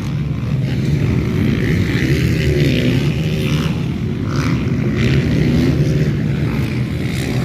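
Motocross bikes racing on the track, their engines revving up and down.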